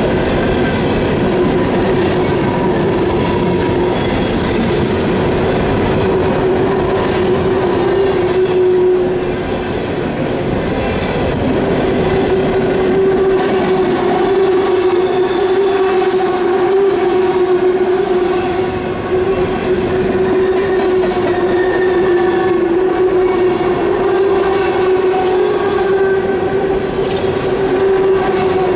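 A fast-moving train of empty steel coal cars rolling past close by, its wheels clattering over the rail joints in a dense steady rumble. A steady tone rings over it throughout.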